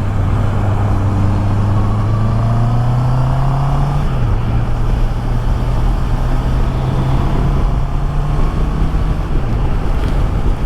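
Honda CB650R's inline-four engine running while riding, heard from inside the helmet with steady wind and road noise. Its pitch climbs gently for about four seconds, dips briefly, then holds steady.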